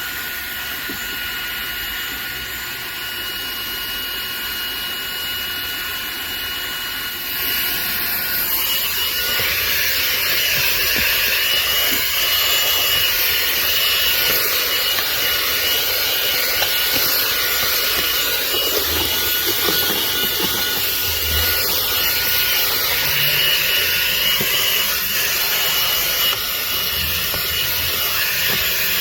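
ROIDMI cordless handheld vacuum running with a steady high-pitched motor whine. About seven seconds in the sound gets louder and rougher, an airy rush with scraping, as the nozzle works over dirt.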